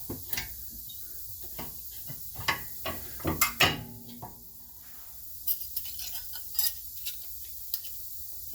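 Scattered metallic clicks and clinks of disc brake pads and their small metal retaining clips being handled and slid into place, loudest about three and a half seconds in.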